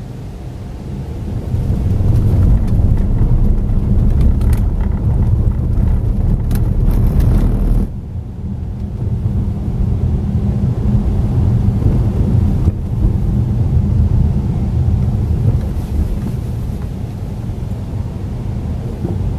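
Car driving, with engine and road rumble heard from inside the cabin. It grows louder about two seconds in, drops suddenly partway through, then builds again.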